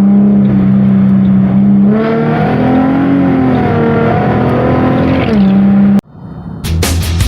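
An engine running at a steady pitch, then revving up and down a little before settling back. It cuts off suddenly about six seconds in, and rock music with drums starts just after.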